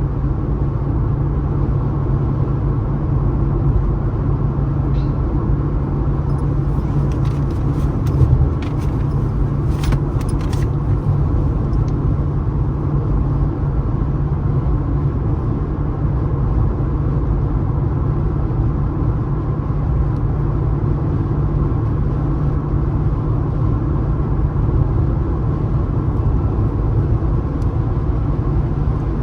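Steady low road rumble of a car driving at speed on a highway, with a few faint clicks between about seven and eleven seconds in.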